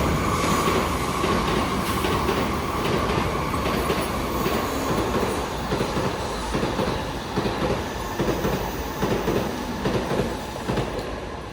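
Commuter train pulling into a station platform: a steady high whine of wheels and brakes over the rumble of the cars. A run of wheel clacks comes over the rail joints in the second half, and the sound slowly dies down as the train slows.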